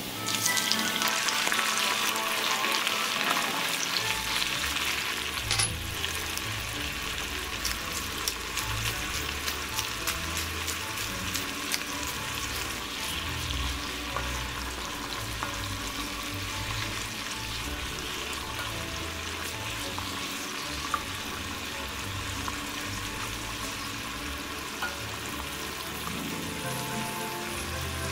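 Garlic and shrimp frying in plenty of hot olive oil in a cast-iron skillet: a steady crackling sizzle full of tiny pops, loudest just after the start and easing a little later on.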